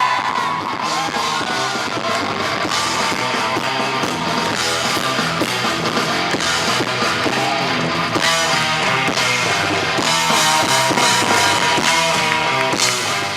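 Live rock band playing an instrumental passage: distorted electric guitar over a driving drum kit, with a long held note through the second half. The loud concert sound breaks up and distorts in the recording.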